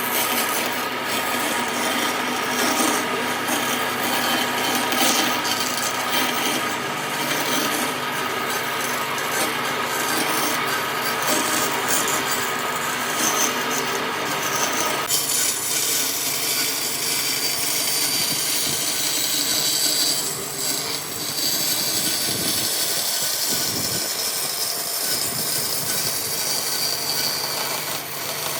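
Power tool working wood, running continuously with a steady whine under a dense rasping noise; the sound changes abruptly about halfway through to a hissier, higher-pitched abrasion.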